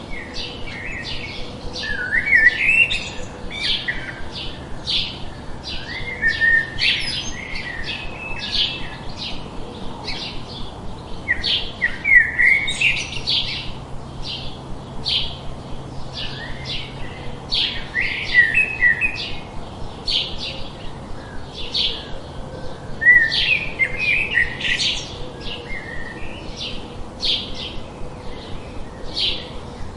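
Small birds chirping steadily, short high chirps about two or three times a second, broken every few seconds by a louder, quicker burst of twittering.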